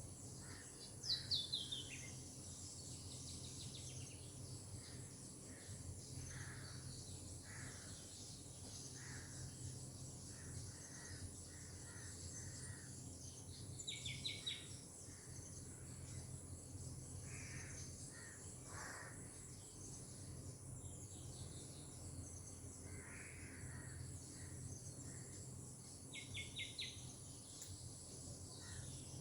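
Bird and insect ambience: a steady high insect drone, with scattered bird calls over it. One call falls in pitch about a second in, and short runs of rapid repeated notes come about halfway through and again near the end.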